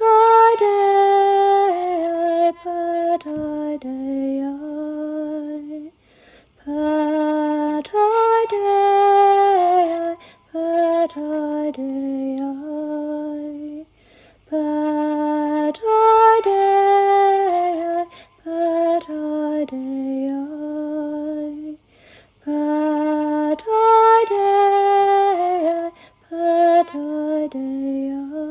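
A woman's solo voice singing a slow, lullaby-like chant. Similar phrases of about six seconds recur roughly every eight seconds, each followed by a short pause.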